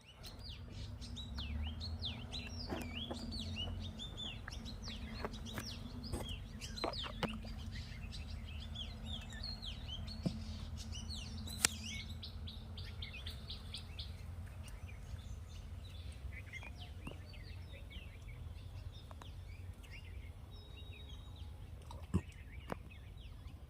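Small birds chirping: many quick, high chirps packed together over the first half, thinning out later, over a steady low rumble and a few sharp clicks.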